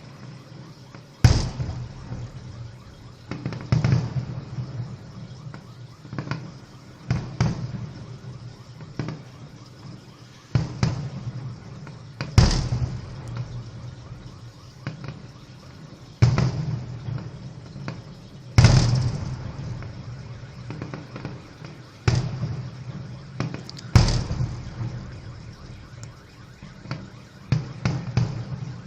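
Fireworks display: about a dozen loud shell bursts at irregular intervals, a few seconds apart, each booming and rumbling away.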